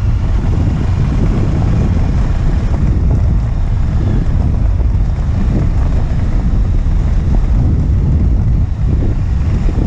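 Wind buffeting a motorcycle-mounted action camera's microphone while riding, with the motorcycle engine running underneath. The sound is a loud, steady, low rumble.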